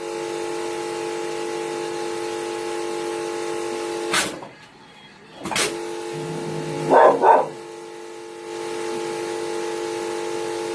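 Rotary-table filling and capping machine running with a steady mechanical hum. The hum breaks off with sharp clacks about four and five and a half seconds in, then starts again. About seven seconds in there are two short, loud sounds close together.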